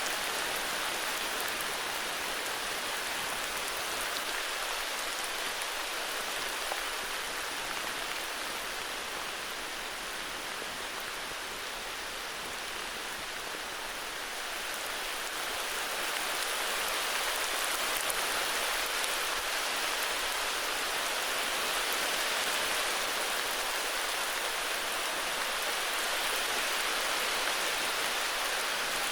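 Steady heavy rain falling in a forest, a dense even hiss of drops that eases slightly and then swells a little about halfway through.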